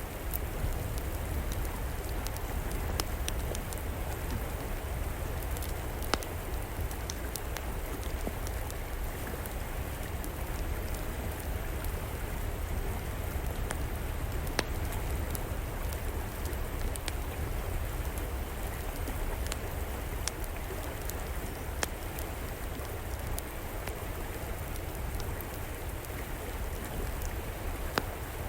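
A river flowing steadily, with the odd sharp pop from a wood fire crackling at irregular moments, a handful of times.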